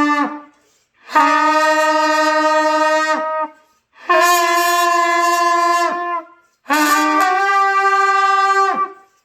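Trumpet playing three long held notes, one after another with short silences between. The second and third notes are higher than the first. Each note sags in pitch as it is let go, as in beginner practice of sustained do-mi-sol tones.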